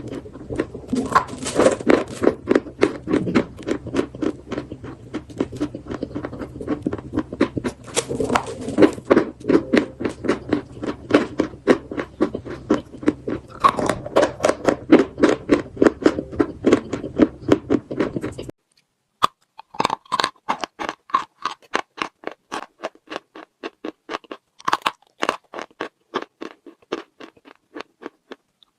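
Chalk mixed with paste being bitten and chewed close to the microphone: fast, crisp crunches about four a second. A steady low hum underneath cuts out abruptly about two-thirds of the way through, and the crunching carries on alone.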